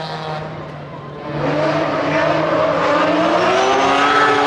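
Rally car engine under hard throttle, louder about a second in as it accelerates, its pitch rising and falling with the revs.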